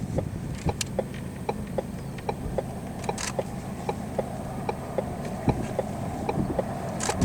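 Car's engine and cabin rumble, steady and low, with an even ticking of about three clicks a second, like a turn-signal indicator relay.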